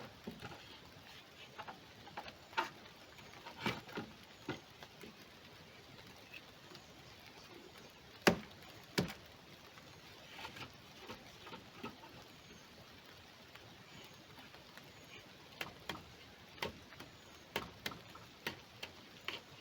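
Scattered, irregular knocks and clicks over a quiet background. The two loudest come about a second apart near the middle, and a string of lighter ticks falls near the end.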